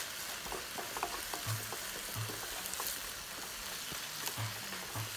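Sliced shiitake mushrooms and browned onions sizzling in a nonstick wok, stirred with a wooden spatula that scrapes and clicks against the pan over a steady frying hiss.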